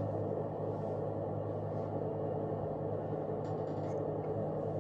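Steady low drone of a semi truck under way, its engine hum and road noise running evenly with a few faint ticks.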